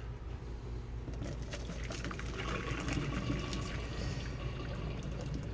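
Water sloshing and pouring in a pot of boiled beets, with a few light knocks of the pot. A steadier pouring sound starts a couple of seconds in.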